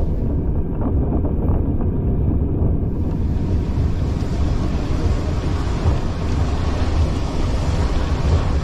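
Railway carriage in motion, heard from on board: a steady low rumble, with wind rushing over the microphone that swells into a broad hiss about three seconds in.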